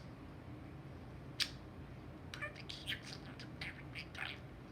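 Budgerigar chattering in a quick run of short, high chirps and clicks, after a single sharp click about a second and a half in.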